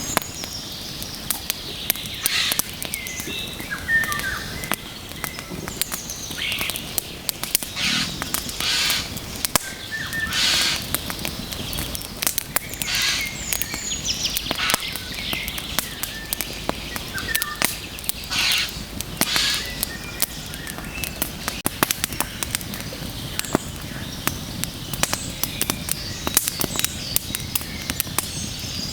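Wood bonfire burning, crackling with frequent sharp pops and short hissing flare-ups, with a few brief high chirps among them.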